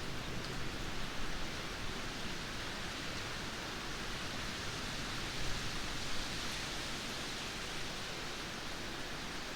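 Steady rain falling, an even hiss with no distinct drops or thunder claps.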